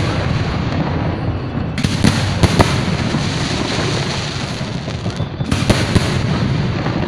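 Aerial fireworks bursting: a cluster of sharp bangs about two seconds in and another near six seconds, over a constant loud din of further bursts.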